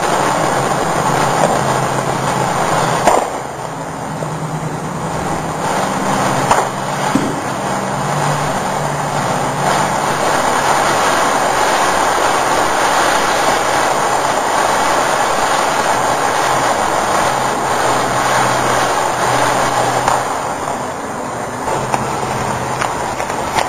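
Ground fountain firework spraying with a steady, loud hiss and a few sharp pops, about three and six seconds in.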